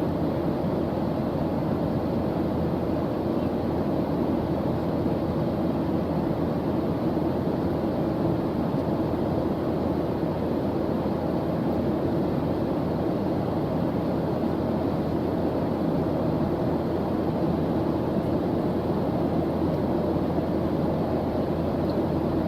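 Steady white-noise track: an even, deep rushing hiss that never changes.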